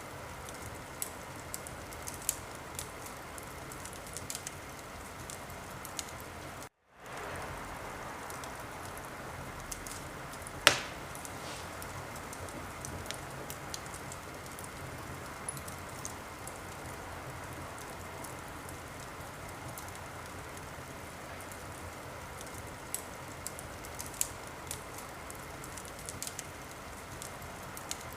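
Wood fire in a fireplace crackling steadily, with scattered small pops and one loud pop about ten seconds in. The sound cuts out for a moment about seven seconds in.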